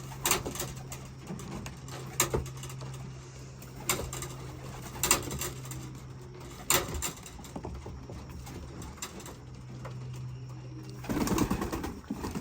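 Racing pigeons cooing in the loft, with several sharp clicks and a steady low hum underneath; the sound swells briefly near the end.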